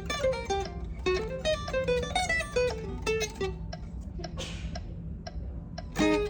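Guitar playing quick runs of single plucked notes in jazz practice. It pauses for about a second and a half midway, then comes back in with a strong attack near the end.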